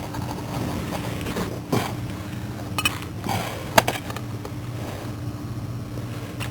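Hand tools clinking and scraping on metal while a starter is fitted under a car, with a sharp clink about four seconds in, over a steady low hum.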